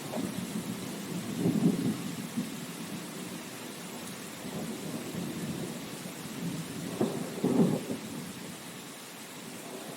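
Steady rain with rolling rumbles of thunder, two stronger swells of rumble about a second and a half in and again near the eighth second, the rumble easing off toward the end.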